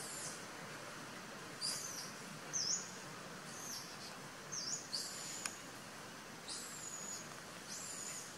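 A bird calling repeatedly in the background: short, high, thin calls that drop in pitch and then hold, mixed with a couple of quick dipping chirps, over a steady outdoor hiss.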